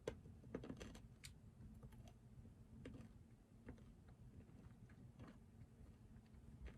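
Faint, sparse clicks of computer keyboard keys being pressed at an irregular pace, over a low steady hum.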